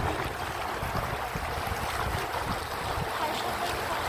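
Canal tour boat under way: a steady low rumble of the boat's motor with water washing along the hull.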